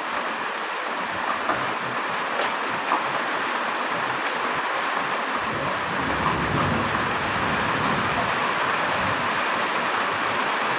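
Heavy rain falling in a steady hiss, with a few separate drop ticks early on. A low rumble swells up in the middle and fades again.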